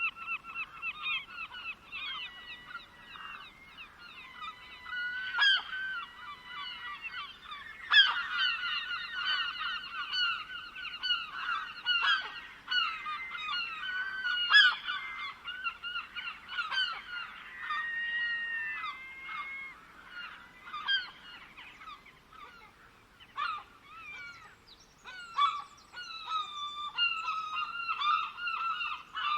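A dense chorus of many birds calling over one another, with a short lull about three-quarters of the way through.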